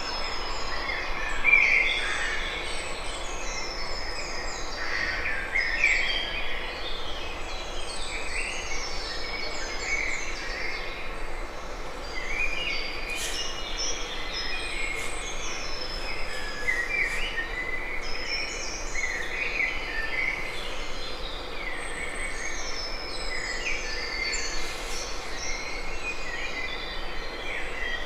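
Field recording of many small birds chirping in quick, repeated short calls over a steady background hiss.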